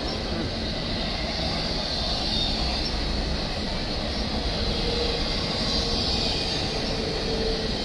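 Double-stack intermodal container cars rolling past on the rails: a steady, dense rumble and clatter of freight car wheels on track. A faint steady tone joins in from about five seconds in.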